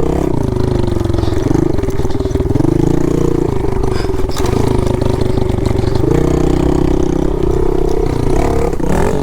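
Pit bike engine running under throttle while riding, its pitch rising and dropping several times with throttle changes.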